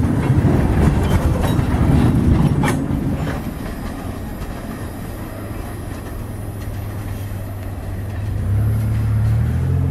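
Freight cars of a train rolling past, wheels clattering with a sharp clank about two and a half seconds in. The sound then drops to a quieter rumble, and near the end a steady low engine hum comes in.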